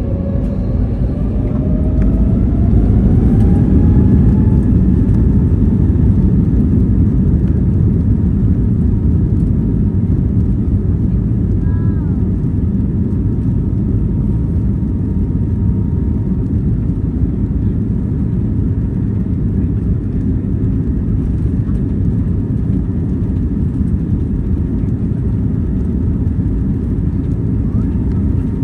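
Airbus A321neo jet engines heard from inside the cabin, spooling up with a rising whine over the first few seconds, then running as a steady, loud rumble.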